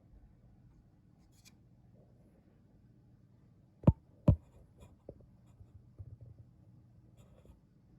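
Handling noises during the repair: two sharp knocks about half a second apart in the middle, followed by lighter clicks and rubbing, over a faint steady hum.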